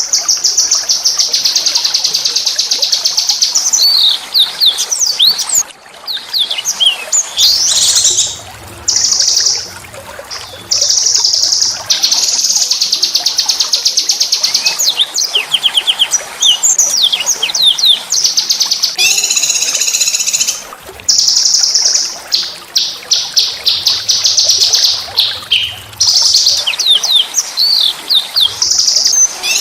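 Small songbird singing a rough, fast song: long, rapid trills of high notes, broken up by quick rising and falling whistled phrases.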